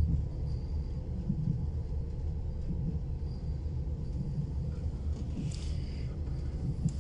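Steady low rumble of a moving passenger train, heard from inside the carriage, with faint high squeaks and a brief sharper noise about five and a half seconds in.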